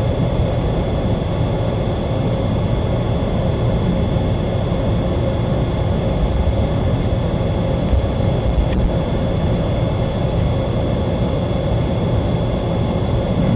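Wind buffeting the microphone: a steady low rumble, with a faint, thin, steady high whine.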